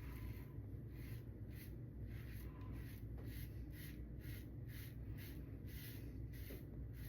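Lambda Ares v2 safety razor with a Tatra blade scraping through lathered stubble in short, quick strokes, about two to three a second, over a low steady hum.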